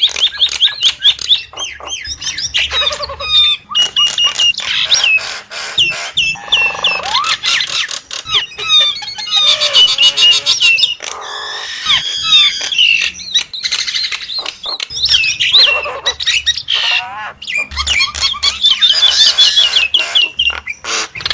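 Nias hill myna (Nias starling) calling loudly and without pause: quick runs of sharp whistled notes, squawks and warbling glides, with a fast rattling series about ten seconds in.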